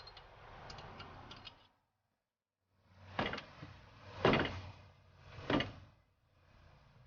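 Hand-tool work on a brake caliper bracket bolt: a few light clicks, a short pause, then three loud separate knocks or strains about a second apart as the bolt is worked loose.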